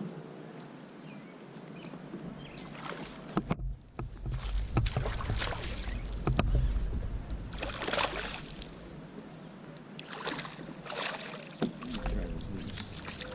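Kayak sounds: knocks on the hull and water splashing in several irregular bursts, with sharp clicks and low thuds.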